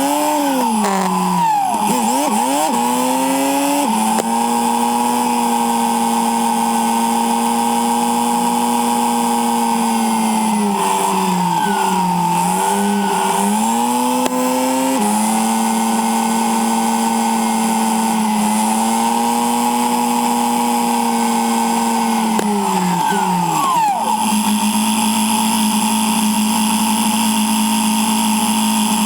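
Yamaha Silverado 1700cc V-twin motorcycle engine running under way, heard from a camera mounted on the bike. The engine note holds steady for long stretches, dips and recovers several times, and jumps sharply back up in pitch three times, with wind noise over it.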